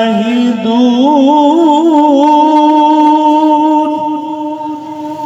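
A male qari reciting the Quran in melodic tajweed style. He holds one long drawn-out note, with a wavering ornament about a second in, then sustains it steadily. The voice is amplified through a public-address sound system.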